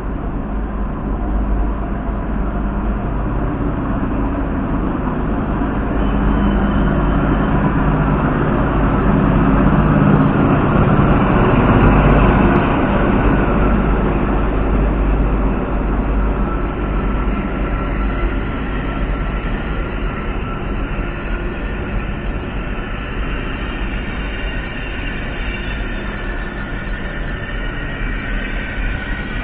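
Diesel passenger train running past the platform. The rumble builds to its loudest about twelve seconds in and then eases, and high steady squealing tones come in over the second half.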